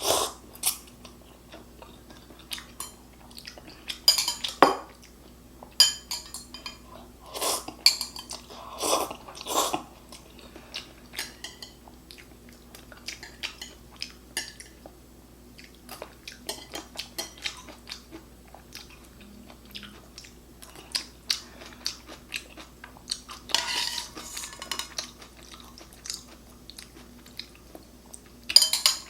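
Eating sounds from a meal of instant ramen and fried bacon: utensils clinking and scraping against a bowl and plate, with bouts of chewing. There are many short clicks, with louder, longer stretches of noise a few times.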